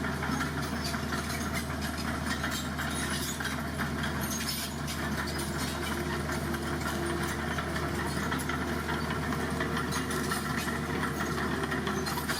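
Heavy diesel engine of road-building machinery running steadily at idle, with a faint rattle over the low drone.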